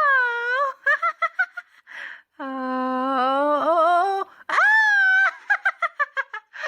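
A young girl's high voice, without words, holding long squealing tones that slide up and down in pitch, with a sharp rising squeal about four and a half seconds in, then breaking into quick giggles near the end.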